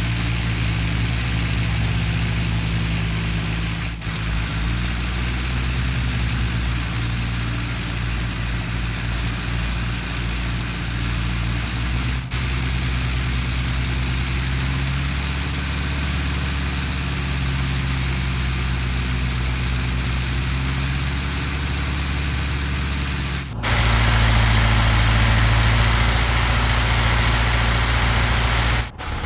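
Heavy construction machinery's diesel engine running steadily, heard in several spliced clips that change abruptly; the last stretch, near the end, is louder.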